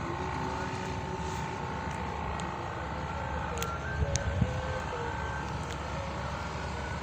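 The long bowed hummer (sendaren) of a flying pegon kite humming a steady high drone in the wind. Wind rumbles on the microphone, with a few stronger gusts about four seconds in.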